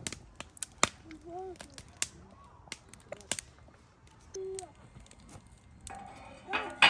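Sharp, irregular clicks and snaps, with short bits of a young child's voice in between and a louder vocal burst near the end.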